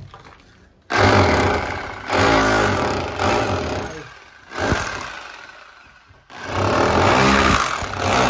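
Electric rotary hammer running in several loud bursts that start and stop abruptly, its motor pitch rising and falling as the trigger is worked.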